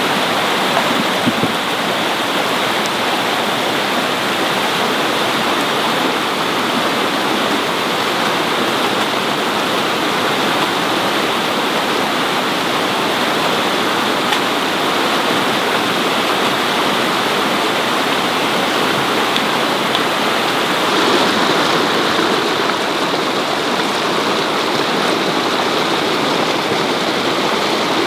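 Steady rushing of water, a dense even hiss, swelling slightly about three quarters of the way through.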